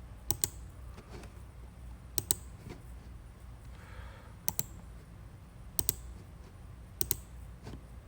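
Scattered sharp clicks from operating a computer, about six in all, most as a quick pair, over a faint steady low hum.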